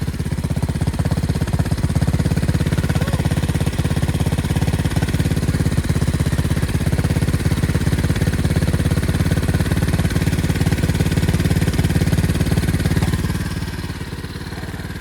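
Pit bike engine running fast and steady with a rapid, even firing beat, sitting really high, then dropping to a lower, quieter running near the end.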